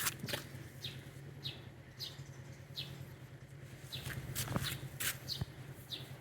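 A small bird chirping over and over: short, high chirps that fall in pitch, about one or two a second, with a few faint clicks among them.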